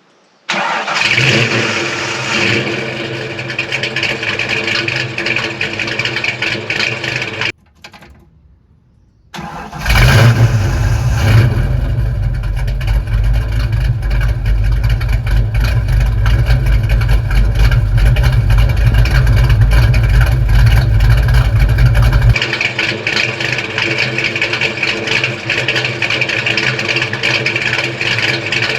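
1988 Ford Mustang's 306 small-block V8 starting and running loud through newly installed SpinTech Super Pro Street 9000 mufflers, an exhaust with a couple of small leaks. The sound drops out for about two seconds a quarter of the way in. It comes back much heavier in the low end, then lighter again past the middle.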